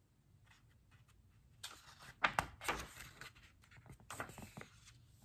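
A book page being turned and smoothed down by hand: paper rustling with a series of sharp taps and clicks, loudest a little past two seconds in.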